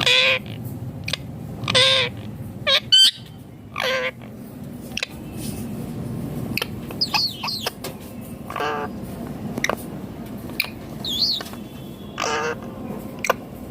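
Indian ringneck parakeet calling: a series of short, harsh squawks, several dropping in pitch at the end, repeated every second or so, with a few quick whistled chirps between them.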